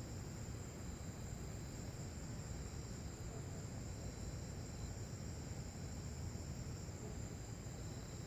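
Insect chorus: several steady high-pitched trills at different pitches, one dropping out about five seconds in and another near the end, over a low steady rumble.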